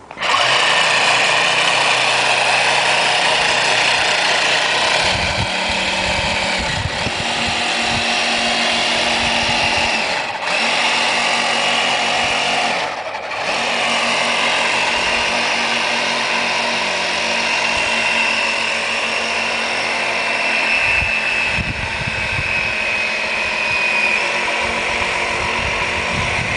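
Electric motor of a radio-controlled bait boat running with a steady high whine that starts abruptly and dips briefly twice partway through.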